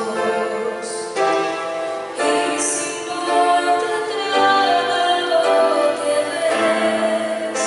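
A woman singing a Christian praise song to instrumental accompaniment, holding notes that change about every second over a bass line.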